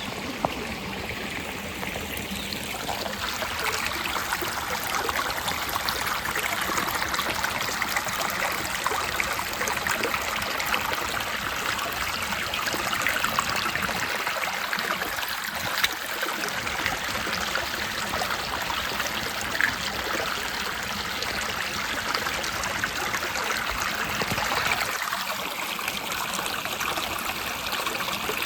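Creek water running and trickling, a steady rushing with a few faint clicks.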